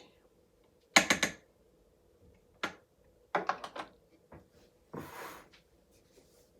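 Kitchen utensils knocking and clinking against cookware in a few separate clatters, the loudest about a second in, followed by a short scrape about five seconds in.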